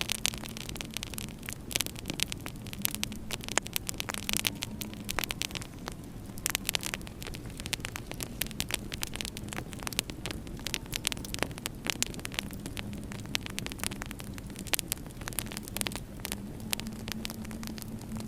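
Wood fire crackling in a fireplace: a dense run of irregular sharp pops and snaps over a steady low hum.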